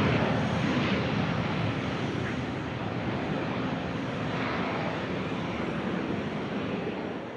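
Twin-turbofan engines of a Cessna Citation CJ3 business jet, a steady jet rush that slowly fades as the aircraft moves away.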